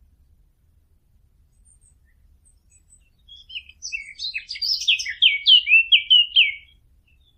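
Fig bird (عصفور التين) song: after about three seconds of quiet, one phrase of quick, high, jumbled chirps that builds into a string of loud downward-sliding notes and stops shortly before the end.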